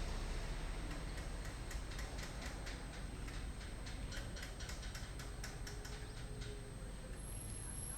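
A rapid, even run of light sharp clicks, about four a second, that starts about a second in and stops near the end, over a low steady background hum.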